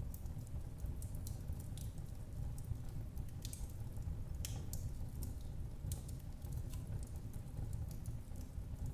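Fireplace fire crackling: irregular sharp snaps and pops over a steady low rumble of the flames, with a few louder pops near the middle.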